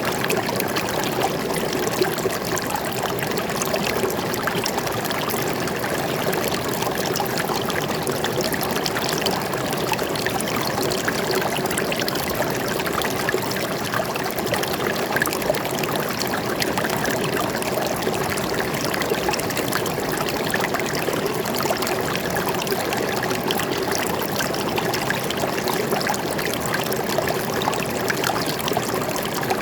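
Stream water flowing and trickling steadily over rocks.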